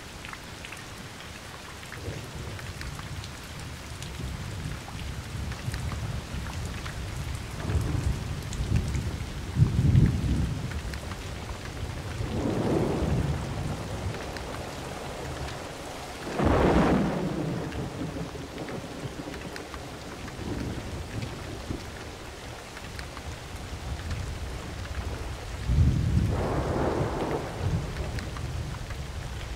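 Steady rain with rolling thunder: low rumbles swell and fade several times, with a louder, sharper clap about 16 seconds in and another strong rumble near the end.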